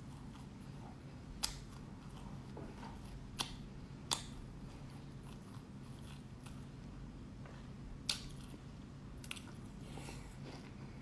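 Mouth chewing and biting black sesame seeds, faint, with about five sharp clicks scattered through it.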